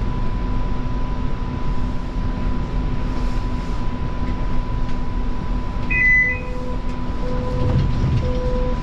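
Interior of a Bombardier Flexity Freedom light rail car standing at a station: a steady hum and rumble of the car's equipment and ventilation. About six seconds in a brief two-tone chime sounds, followed by short low beeps about once a second.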